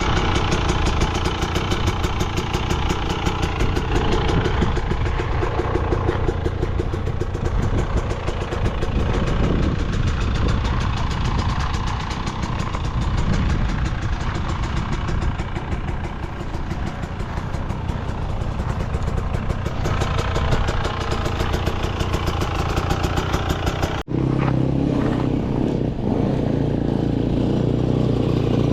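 Motorcycle engine running under way on a dirt trail, with a fast, even pulse of firing strokes. About 24 s in the sound cuts abruptly to a steadier, lower engine note.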